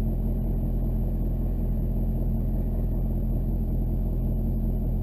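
Chevrolet Duramax LB7 6.6-litre V8 turbodiesel pickup's engine running steadily, heard from inside the cab as an even, low drone.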